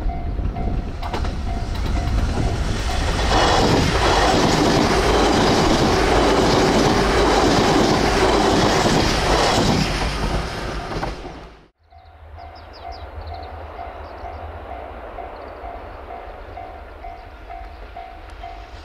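A JR Kyushu 303 series electric train passing close by: its running noise and wheel clatter on the rails swell to a loud peak and then fall away. After a sudden cut about twelve seconds in, a level-crossing bell dings at an even pace over a low rumble.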